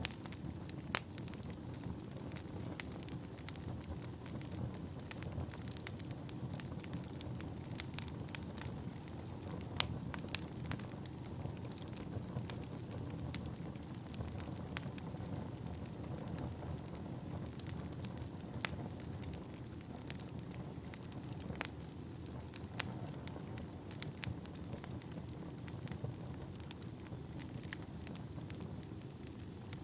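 Wood fire burning in a fireplace: a steady low rumble of flames with irregular crackles and sharp pops from the burning logs. A faint high whistle slowly falls in pitch near the end.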